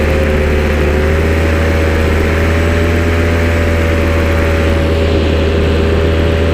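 A vehicle engine running steadily at a held speed, with a strong low hum; its pitch edges up slightly about a second in.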